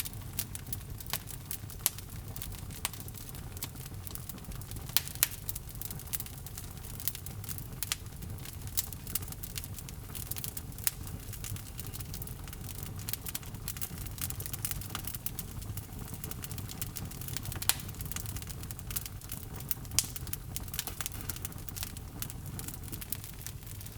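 Log fire burning in a fireplace: a steady low rumble of flame with irregular crackles and sharp pops from the burning wood.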